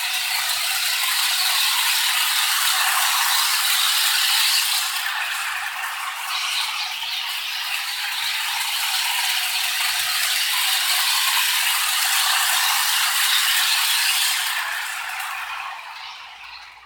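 Model train running on its track: an Amtrak model locomotive hauling a string of freight cars, the wheels and cars giving a steady high rattle that fades away near the end.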